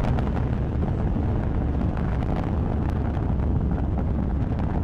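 Falcon 9 rocket's nine Merlin engines in full-power ascent: a steady, deep rumble with a crackle running through it.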